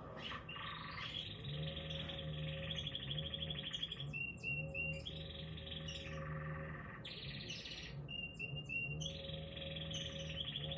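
A small bird singing: runs of rapid trills a second or two long, alternating with short repeated chirps, over quiet music with steady low sustained notes.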